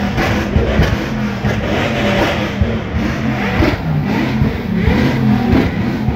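Car engines running loudly, with short revs now and then.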